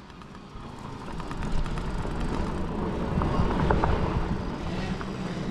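Small youth dirt bike engines running as the kids race around the motocross track, getting louder over the first couple of seconds, then holding steady.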